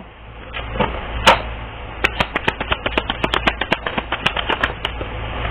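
Tarot cards being shuffled: a single click, then a quick, uneven run of light clicks for about three seconds.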